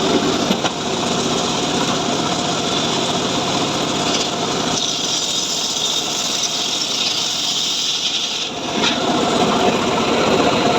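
Small-engine homemade chainsaw running steadily as it cuts through mahogany wood, its tone shifting about halfway through and dipping briefly near the end.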